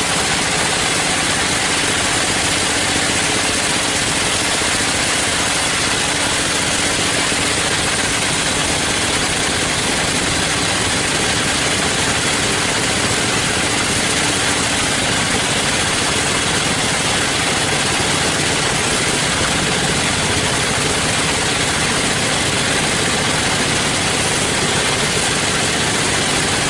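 Sawmill machinery running steadily: an even, unbroken mechanical noise with a faint hum and no change in level.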